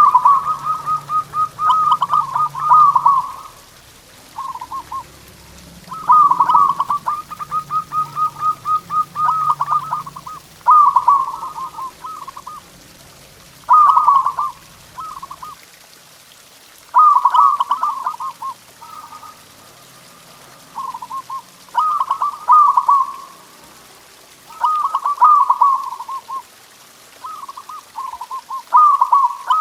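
Zebra dove (perkutut) singing: phrases of rapid, staccato coos repeated every few seconds with short pauses between.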